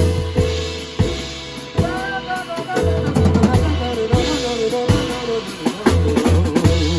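Instrumental band music with no vocals: a drum kit keeping time with bass drum and snare hits under a held bass line and melodic instrument lines.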